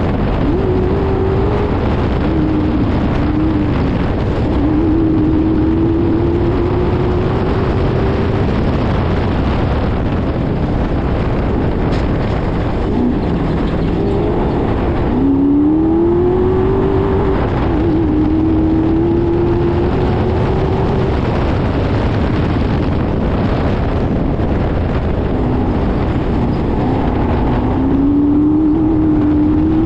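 Off-road race car's engine running hard at speed, its note rising and falling as the throttle is worked, with a sharp dip and climb about halfway through and another climb near the end, over a steady dense rumble.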